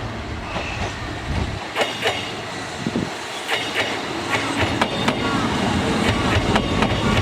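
Kintetsu Minami-Osaka Line electric train running through the station, its wheels clattering over the rail joints, with thin high tones above the rumble. It grows louder over the last couple of seconds.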